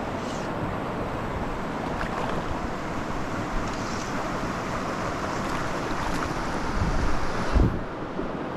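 Steady rushing of a mountain trout stream, with a brief low rumble near the end.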